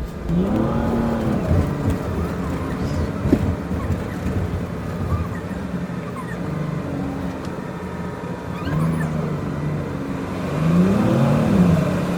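A city bus's engine and drivetrain heard from inside the bus, sped up. The pitch swoops up and back down quickly near the start and again near the end as the bus pulls away and slows in stop-and-go traffic, over a steady low drone.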